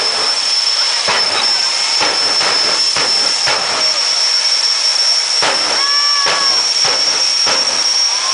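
Turbojet engine of a jet-powered drag car running steadily: a loud rushing hiss with a constant high-pitched whine, broken by irregular sharp cracks every half-second or so.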